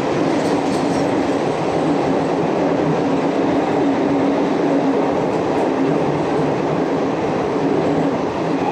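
Indian Railways express train running along the track: the steady, continuous running noise of the coaches, with a faint steady hum beneath it.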